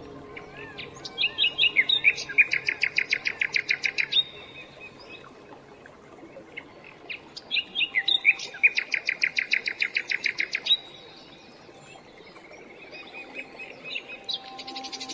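A songbird singing the same phrase twice: a few short opening notes, then a fast, even trill of repeated notes lasting about three seconds. The second phrase comes about six seconds after the first.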